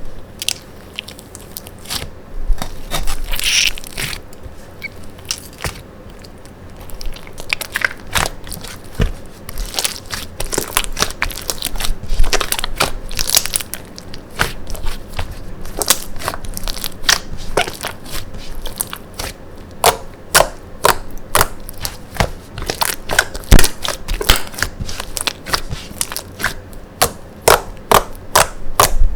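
Slime being squeezed and pressed by hand, giving many irregular crisp clicks and pops that come thick and fast through most of the stretch.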